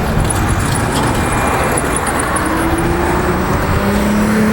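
Steady road-traffic noise, with a passing vehicle's engine note rising slowly in the second half.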